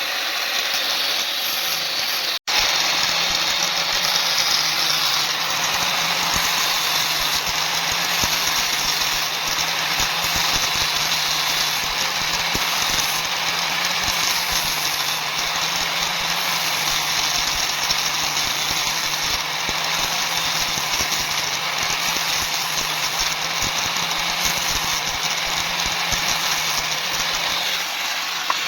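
Power grinder working a steel knife blank: a steady motor hum under a loud, constant grinding hiss. The sound drops out for an instant about two and a half seconds in, then carries on unchanged.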